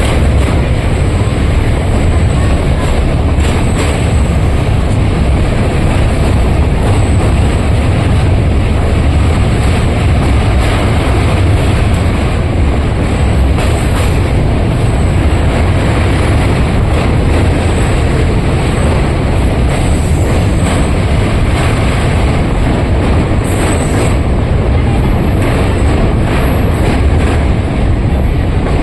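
A train running on the rails, a steady loud rumble with faint irregular clicks.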